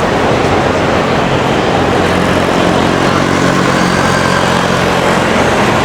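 Busy city street din with a motor vehicle's engine running nearby, its steady low hum coming in about two seconds in and fading near the end.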